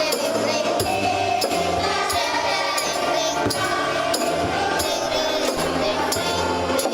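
Church choir singing a hymn in rehearsal, with accompaniment and a regular percussion beat struck about every two-thirds of a second.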